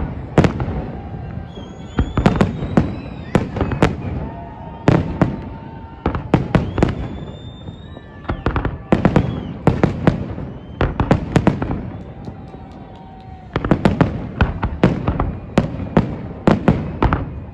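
Aerial fireworks salute: shells bursting in rapid volleys of sharp bangs that come in bunches every couple of seconds, echoing between volleys.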